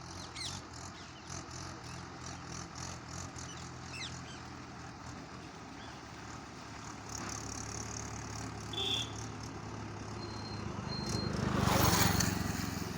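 Mahindra 575 tractor's diesel engine running steadily, growing louder toward the end as it comes close, at its loudest about twelve seconds in.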